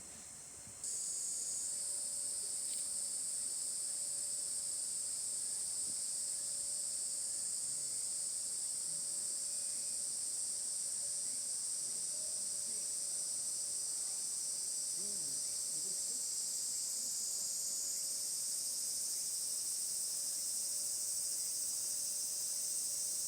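A steady, high-pitched chorus of summer insects that starts suddenly about a second in and then holds level.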